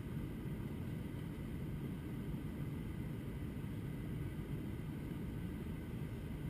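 Steady low rumble of engine and airflow noise inside the cabin of an Airbus A321-200 airliner, even and unchanging throughout.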